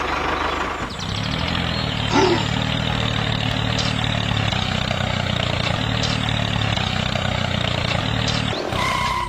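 Tractor's motor running steadily with a low hum, stopping abruptly near the end.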